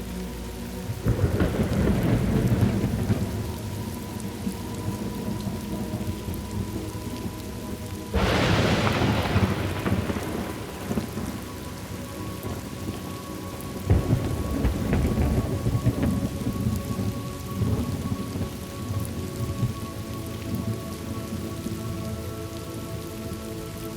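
Thunderstorm: steady rain falling, with three long rolls of thunder, about a second in, about eight seconds in (the loudest, starting suddenly) and about fourteen seconds in.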